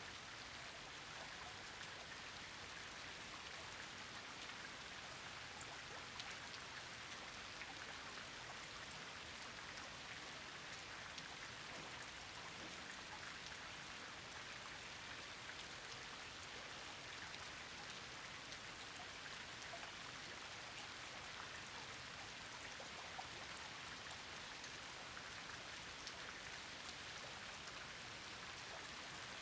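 Steady rain falling, an even hiss with many small, scattered drop ticks.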